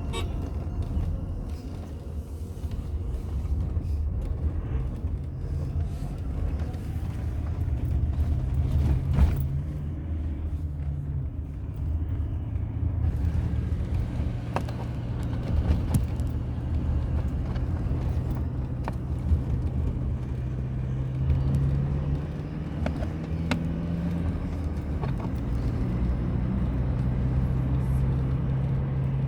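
Car on the move: a steady low engine hum and road rumble whose pitch shifts a little now and then, with a few sharp knocks along the way.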